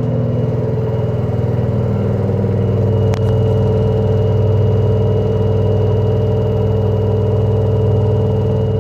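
LG direct-drive washing machine spinning, its drum running with a loud, steady drone and one sharp click about three seconds in. This extreme noise during the spin is the fault.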